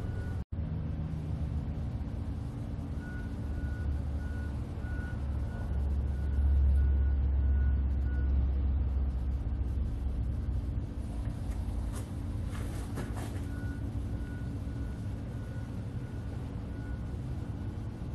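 A vehicle's reversing alarm beeping faintly about twice a second over a low, steady rumble. The beeping stops for several seconds in the middle, and the rumble swells about six seconds in.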